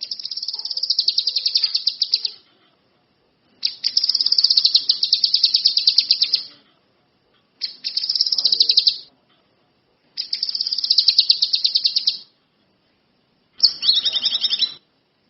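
A kinoi lovebird singing in full voice: five long, high, rapid chattering trills, each lasting one to three seconds, with short pauses between them.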